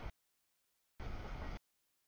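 Double-stack container freight train rolling past: rumbling wheel and rail noise heard only in choppy snatches. A brief bit at the start and another half-second burst about a second in are cut off abruptly by dead silence, as the audio feed drops out.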